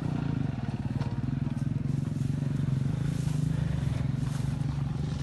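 Motorcycle engine running steadily, its firing pulses even, holding a constant pace.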